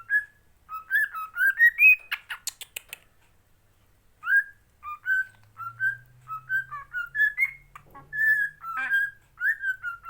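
Pet parrot whistling a string of short, clear notes, some sliding upward, with a quick burst of sharp chirps about two seconds in.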